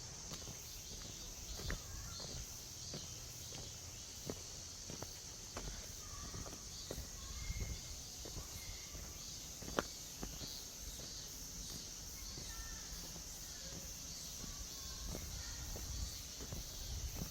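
Footsteps on a forest trail, sharp irregular knocks at walking pace, over a steady high insect drone with a few short bird chirps.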